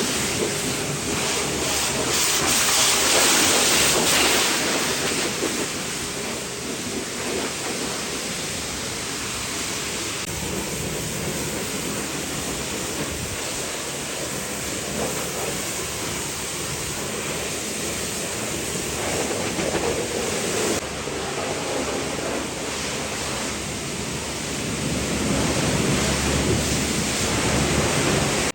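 Pressure-washer water spray hissing against the truck's body: a steady rushing noise that swells about three seconds in and again near the end.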